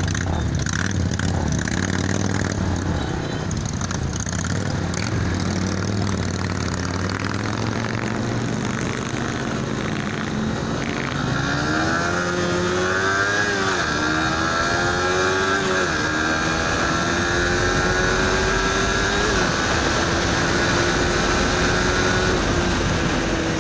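Motorcycle engine idling with a steady low note, then about eleven seconds in it pulls away, revving up and dropping twice through gear changes before settling into a steady cruising pitch.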